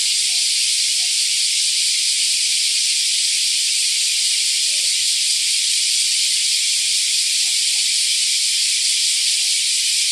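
Chorus of cicadas singing, a continuous dense shrill buzz that holds steady throughout.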